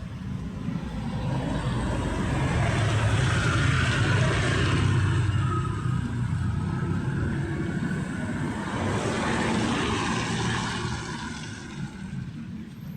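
Street traffic passing: two vehicles swell up and fade, the first loudest about four seconds in, the second about ten seconds in.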